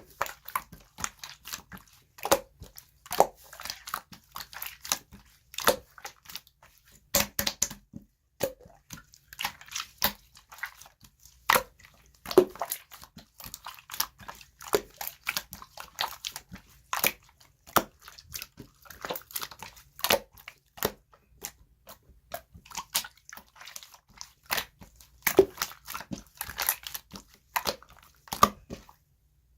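Slime being squished and pressed by hand, giving sharp wet clicks and pops at irregular intervals, sometimes several in quick succession.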